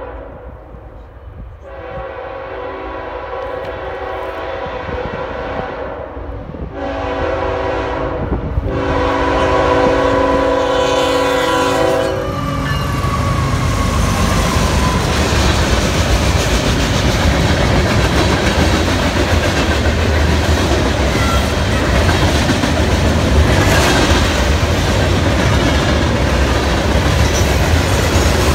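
A CSX freight locomotive's multi-chime air horn sounds for the grade crossing in three blasts: a long one, a short one, and a long one that ends as the locomotive passes. Then the locomotive's rumble and the freight cars rolling by on the rails fill the air, steady and loud.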